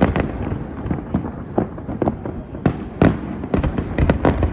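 Aerial fireworks going off in quick succession: irregular bangs and crackles, densest and loudest in the last second and a half.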